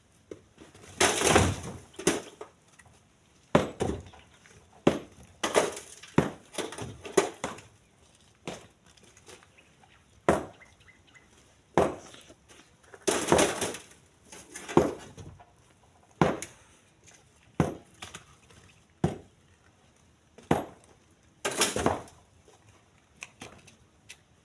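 Split stones thrown one after another into a truck bed, each landing with a sharp clattering crash of rock on rock and steel, roughly one a second and unevenly spaced.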